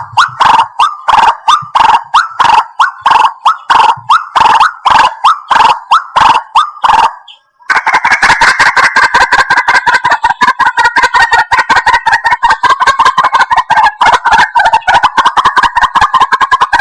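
White-breasted waterhen calls, loud and repeated at about three notes a second; after a short break about halfway through they give way to a dense, rapid chatter of overlapping calls.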